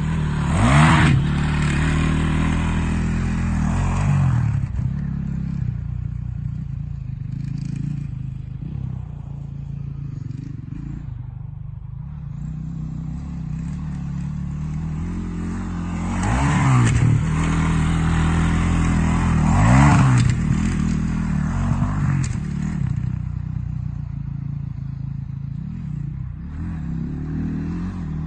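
Honda CRF450 motocross bike's single-cylinder four-stroke engine being ridden, revving up and falling back as the throttle is opened and closed. It rises sharply about a second in, then runs quieter and steadier for a long stretch before several more strong revs in the second half.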